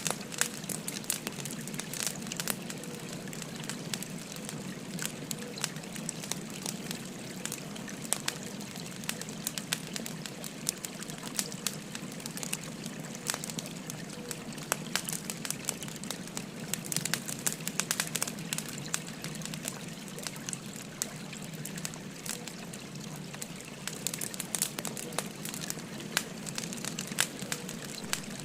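Burning firewood crackling, with many sharp, irregular pops, over the steady rush of a flowing stream.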